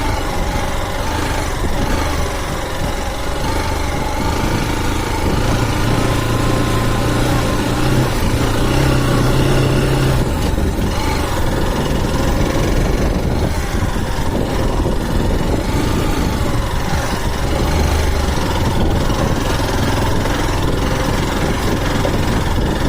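Motorcycle engine running at low speed, with its pitch rising briefly about eight seconds in as the throttle is opened.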